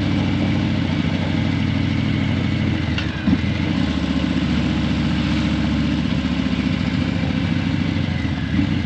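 Harley-Davidson Breakout 117's Milwaukee-Eight 117 V-twin running steadily at low revs near idle through a Vance & Hines Eliminator 300 slip-on exhaust, with one brief knock about three seconds in.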